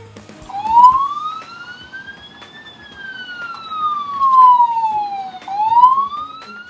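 Police siren wailing: a slow rise in pitch over about two seconds, a longer fall, then a rise again near the end, with a few small clicks and knocks in the first second.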